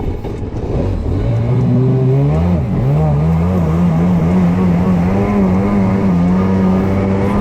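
Kawasaki 650 two-stroke twin engine of a stand-up jet ski accelerating on the water: the engine note climbs about a second in, dips briefly, then holds at high revs with a slight waver. The ski is running on a newly replaced carburetor and a repaired pump shoe.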